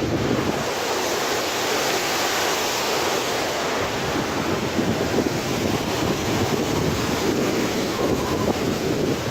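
Loud, steady rush of wind buffeting the microphone, with gusty low rumbles.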